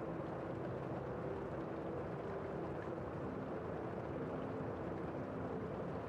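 Steady rain falling outside a window, heard from indoors as a constant, muffled hiss.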